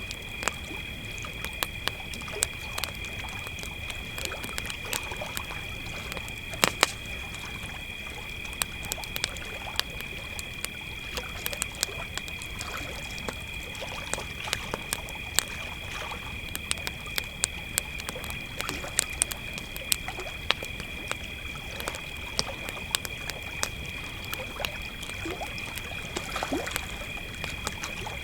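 Crickets trilling steadily at two high pitches, over a campfire crackling with frequent small pops; one louder pop about seven seconds in.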